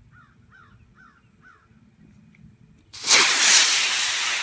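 A model rocket motor ignites about three seconds in with a sudden loud hiss of its burn that carries on steadily. Before it, a bird chirps four short descending notes.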